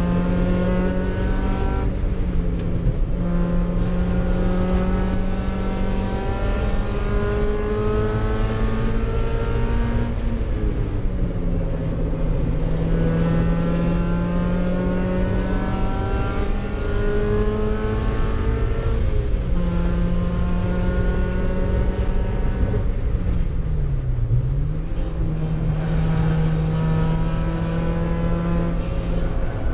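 Mazda Miata race car's four-cylinder engine heard from inside the cabin, running hard at high revs on track. It holds a steady, loud note with small pitch changes around 11 and 19 seconds in, and near 24 seconds the pitch briefly drops and climbs back.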